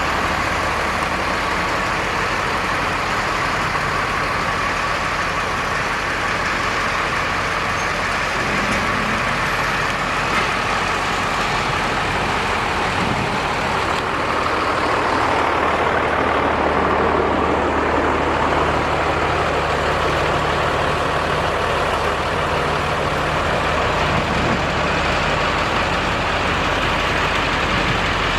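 A box truck's engine running steadily, a continuous low hum that grows a little louder around the middle.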